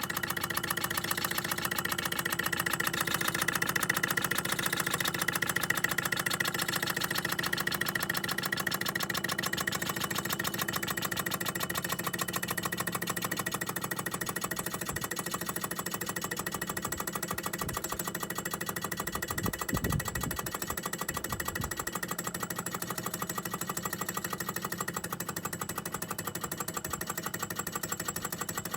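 Empire B-38 hot air (Stirling) engine running with a rapid, even mechanical ticking, carrying on on its stored heat with the electric heater unplugged, and fading slightly. A few low bumps come about two-thirds of the way through.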